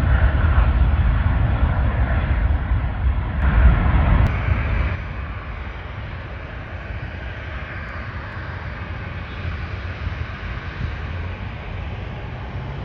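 Jet airliner engine noise: a loud low rumble that drops off sharply about five seconds in, leaving a quieter steady rumble.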